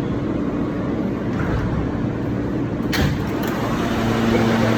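Steady rumble of a New York subway train, with a single sharp click about three seconds in.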